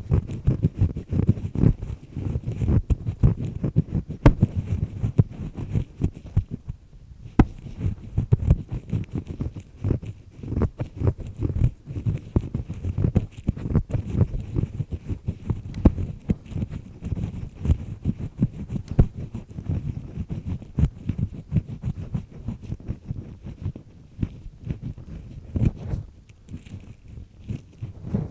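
An ear pick scraping inside an ear canal, close to the microphone: a dense run of rapid, rough grinding scratches and crackles, easing off briefly about seven seconds in and again near the end.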